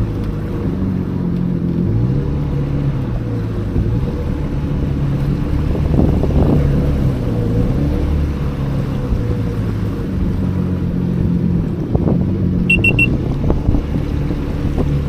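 Jet ski engine running at low no-wake speed, its pitch rising and falling a little as the throttle is adjusted. About thirteen seconds in, a quick series of short electronic beeps sounds: the craft's controls confirming that cruise control has been set.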